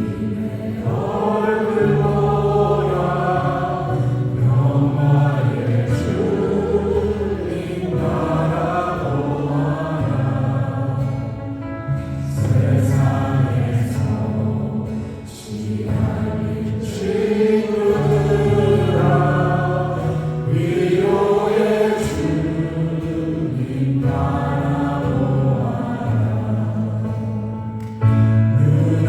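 Church worship team singing a praise song, several voices together over keyboard and band accompaniment.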